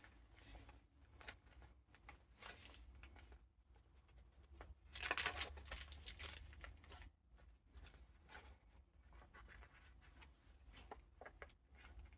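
Paper pages of a handmade junk journal being turned and handled, rustling and crinkling, with a louder rustle about five seconds in.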